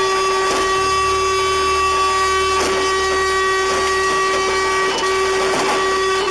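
A vehicle horn held down in one long steady blast, briefly let go just before the end and then pressed again.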